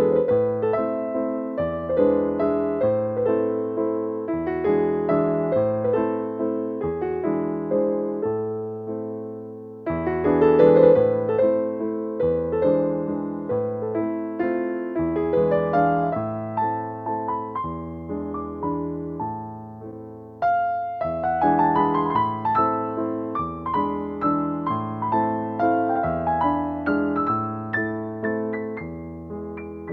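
Background piano music: a gentle piano piece with a repeating bass line, swelling into fuller phrases about ten and twenty seconds in.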